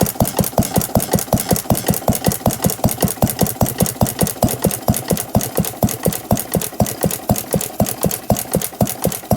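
1910 Paige cream separator engine, a small antique gas engine with an atmospheric intake valve, running steadily at its governed speed. It gives an even, rapid chuffing knock of about five beats a second.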